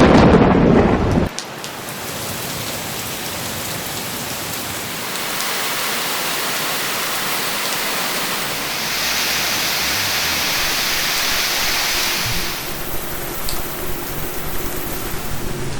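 A loud rumble of thunder that cuts off abruptly about a second in, followed by steady heavy rain pouring down, growing heavier and hissier for several seconds in the middle.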